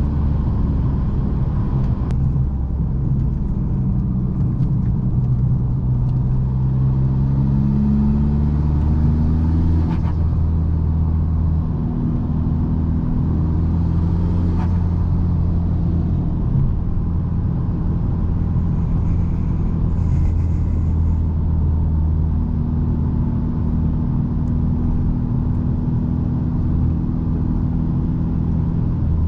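Modified 2.0 TDI common-rail diesel with an upgraded turbo and deleted, custom stainless exhaust, running under way in a car: a steady low drone whose pitch climbs between about six and ten seconds in, then holds.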